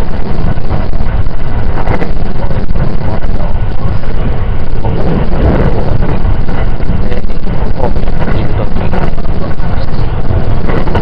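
Steady running noise of a JR 681 series limited express electric train heard from inside the passenger car: a continuous low rumble with a rushing hiss.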